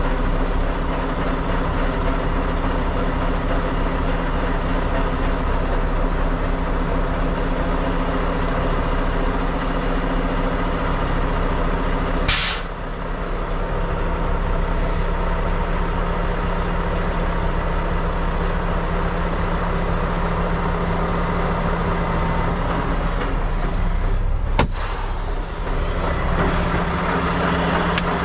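Heavy diesel truck engine idling steadily, with a short sharp burst of air hiss from the air system about 12 seconds in and a click followed by a brief air hiss near 25 seconds.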